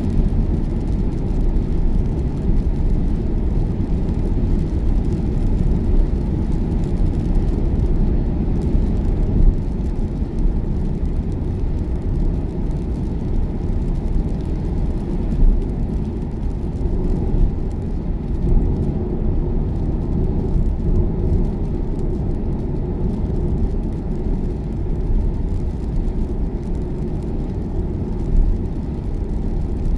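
Steady road and tyre noise of an electric Tesla cruising at motorway speed, heard inside the cabin: a low, even rumble.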